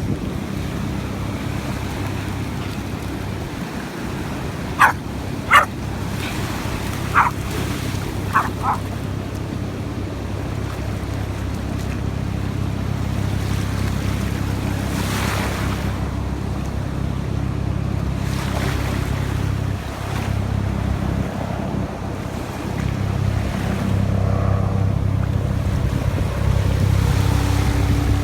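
A dog barks five times in short calls, about five to nine seconds in, over the steady low rumble of sea surf and wind.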